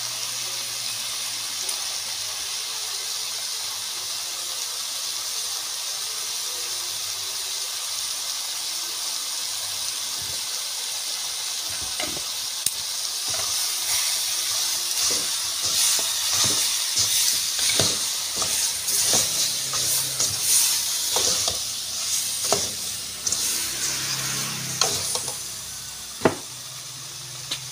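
Pork ribs in curry sauce sizzling in an aluminium pot, steady at first. From about halfway a metal spoon stirs them, clattering and scraping against the pot while the sizzling grows louder, with one sharp knock near the end.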